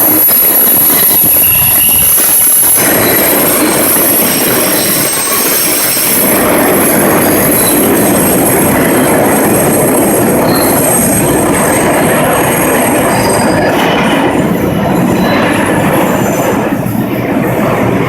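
R142 subway train's steel wheels squealing on the tight loop curve, several high ringing tones over the rumble of the train running on the rails. The squeal fades away in the last few seconds, leaving the running rumble.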